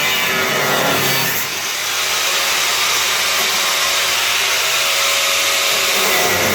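Power tool cutting steel car body metal, running steadily with a short dip about a second and a half in.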